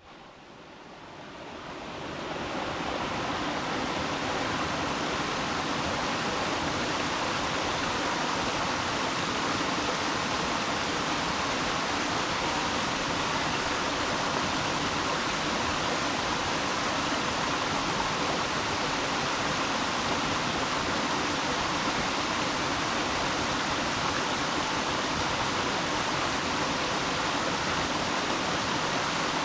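Steady rushing water, fading in over the first few seconds.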